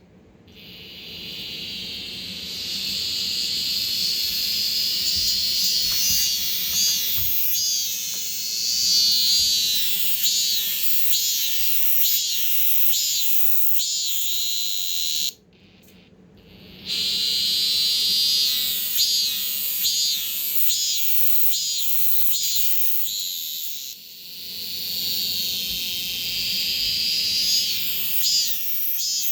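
Several Korean robust cicadas (참매미) singing together indoors, a loud chorus of repeated rising-and-falling 'maem-maem' strokes. The chorus cuts out for about a second and a half midway, then resumes.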